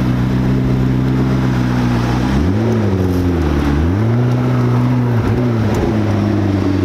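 McLaren 12C's twin-turbo V8 pulling away at low revs. Its note rises and falls twice as the throttle is blipped, dips briefly a little after five seconds in, then holds steady as the car drives past.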